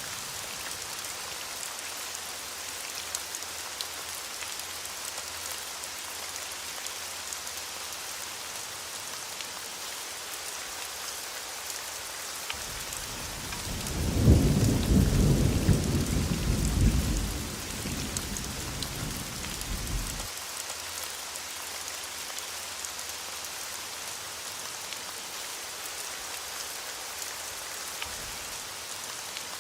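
Thunderstorm: steady rain falling, with a single low roll of thunder about halfway through that swells, rumbles for several seconds and dies away.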